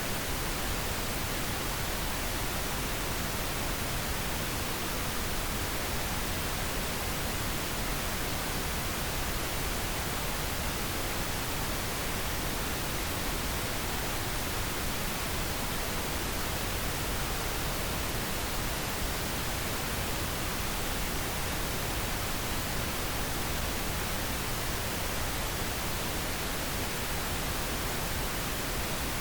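Steady pink noise, an even unchanging hiss with a soft, deep rush, played as a sleep aid.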